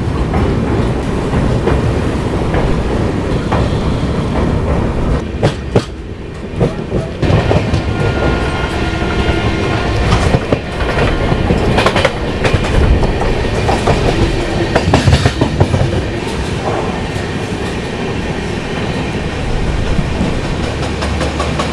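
Passenger train running at speed, heard from inside a coach: a steady rumble and rush of the moving coaches with the wheels clicking over rail joints, a brief lull about six seconds in.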